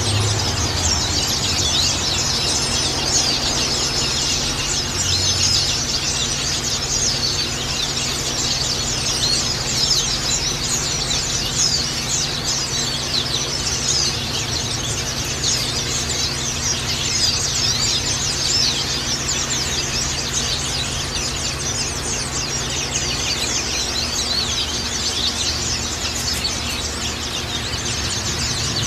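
A dense chorus of white-eyes (pleci) chirping and twittering without pause, many quick high notes overlapping, over a steady low hum.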